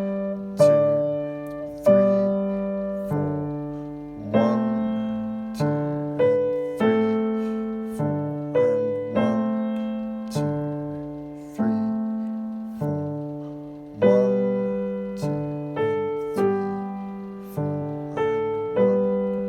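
Piano playing a slow, even run of chords, one struck about every second and a bit, each fading away before the next.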